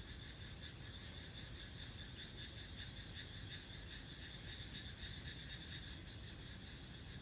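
Wood fire burning in a compact secondary-combustion fire stand: a low steady rumble with a few faint crackles. Over it, frogs call in a steady pulsing chorus.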